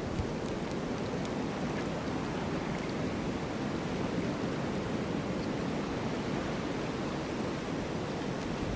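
Snowstorm wind blowing as a steady, even rushing noise, with no gusts or impacts standing out.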